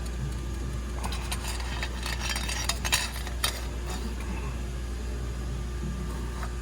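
Light metallic clinking and crackling for about three seconds, starting about a second in, over a steady low hum.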